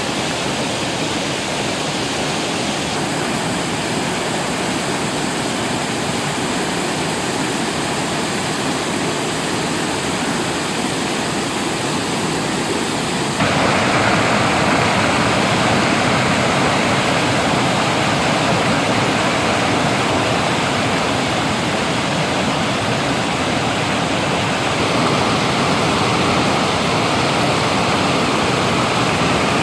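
Waterfall rushing steadily, a dense even roar of falling water that jumps louder about halfway through.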